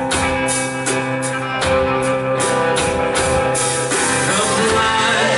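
Live worship band playing between sung lines: guitars and sustained chords over a drum kit keeping a steady beat. The drums drop out about three and a half seconds in, leaving the held chords.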